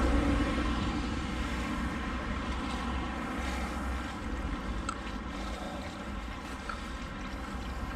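Steady rushing of a swollen, fast-flowing river in flood after heavy rain, a constant noise with a heavy low rumble.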